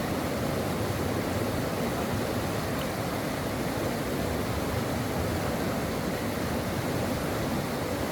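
A brook's water flowing steadily, an even rushing noise with no breaks.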